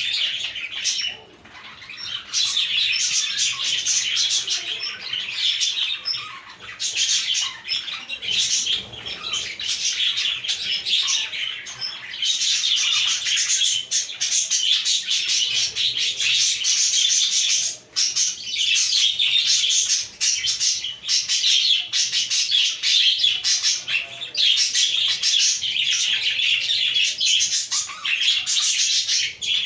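A flock of budgerigars chattering and warbling together in a dense, continuous stream of high chirps, dipping briefly about a second in.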